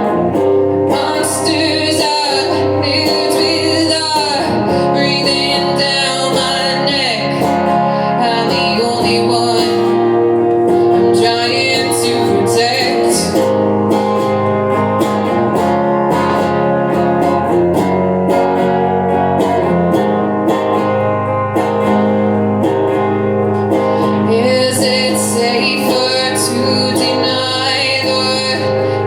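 A band playing a song live: a guitar, with a voice singing over it in places.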